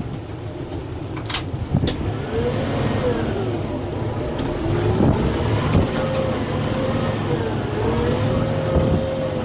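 Kubota M6-141 tractor's diesel engine working under load, its pitch rising and falling several times as it revs up and down. A few sharp knocks or cracks sound over it.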